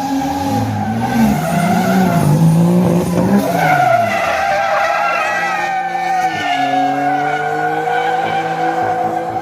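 Drift car engine revving up and down with tyres squealing as the car slides, the engine then holding at a steadier, higher pitch.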